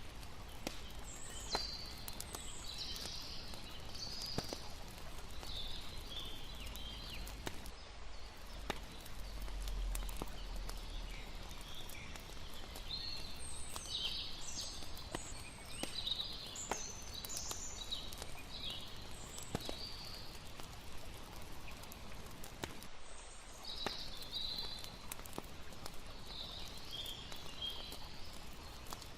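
Layered campfire night ambience: a wood fire crackling with scattered sharp pops, irregular high chirping calls, and a soft steady wash of lapping water underneath.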